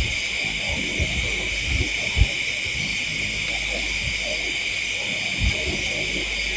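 Steady high-pitched drone of a night-time insect chorus, with a few dull low thumps, the loudest about two seconds in.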